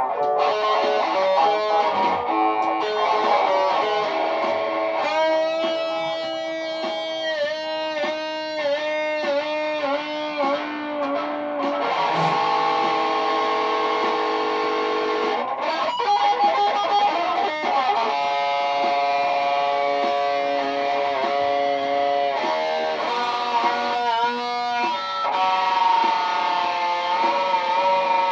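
Electric guitar playing layered looped phrases through effects, with several sustained notes ringing together and some notes bending in pitch near the end.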